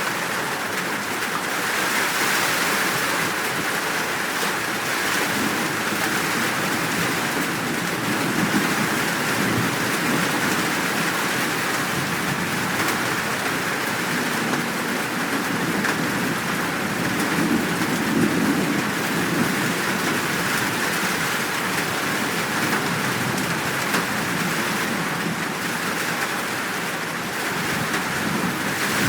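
Steady heavy rain falling, with low rolling thunder rumbling in the background and swelling about two-thirds of the way through.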